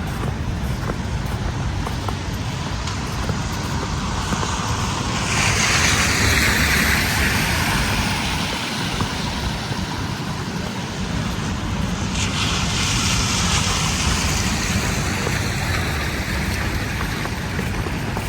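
City street traffic: a steady low rumble, with a louder hiss that swells and fades twice as vehicles pass, once about five seconds in and again about twelve seconds in.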